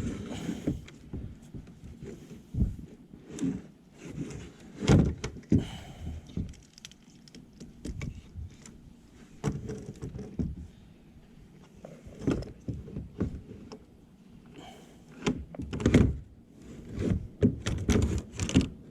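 Irregular knocks, clunks and scraping as a kayak seat and its new seat clips are worked against the seat track of a Jackson Bite kayak, the clips refusing to slide into the track. The loudest thunks come about five seconds in and again around twelve and sixteen seconds.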